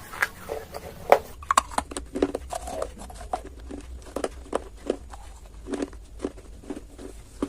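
Hard, dry clay being bitten and chewed close to the microphone: a steady run of sharp crunches, about two a second.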